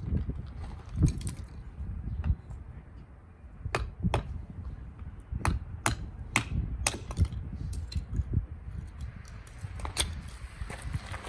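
Strong wind rumbling and buffeting on the microphone, with a run of sharp clicks and knocks through the middle.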